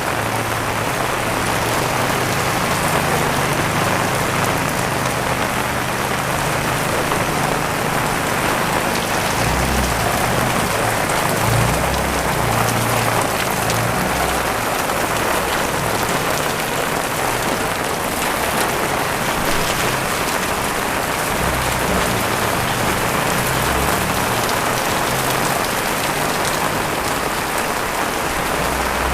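Heavy rain pouring down steadily, with a low rumble that comes and goes underneath.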